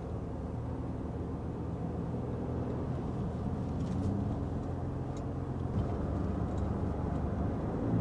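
A vehicle's engine and road noise while driving, with a steady low hum whose pitch shifts a little.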